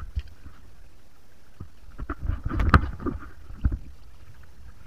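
Water splashing in running water: a short burst of several splashes about two seconds in, over a steady rush of flowing water.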